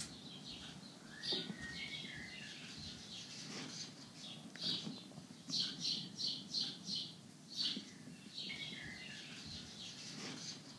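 Small birds chirping: scattered short, high chirps, with a quick run of about six chirps near the middle.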